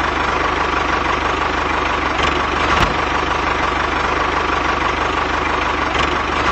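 A DIY mini tractor's small motor running steadily, with a constant whir and an even, rapid low pulse.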